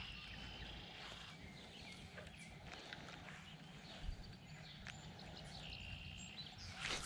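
Quiet outdoor ambience at a pond: birds giving high, thin calls that come and go, over a steady low rumble, with one soft knock about four seconds in.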